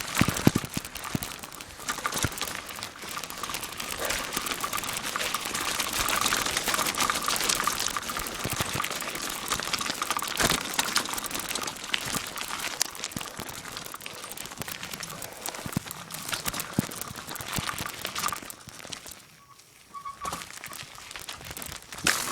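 Riding noise on a bicycle ride: a continuous crackling rustle with many small clicks and a faint steady high tone. It quietens about nineteen seconds in.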